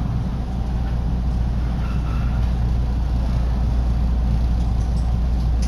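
Electric commuter train running slowly along a station platform, heard from inside the car through an open window: a steady low rumble with wind buffeting the microphone.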